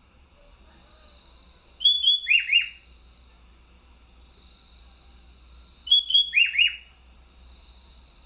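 Sooty-headed bulbul (kutilang) singing twice: two short, loud phrases of about four quick whistled notes that drop in pitch, a few seconds apart.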